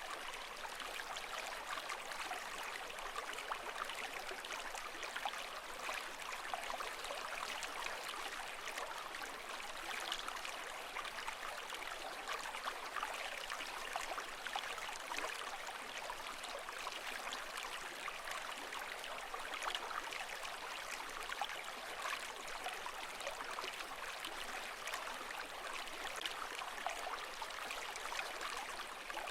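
Running water, steady and even, with a fine crackle of small splashes and no rise and fall of breaking waves.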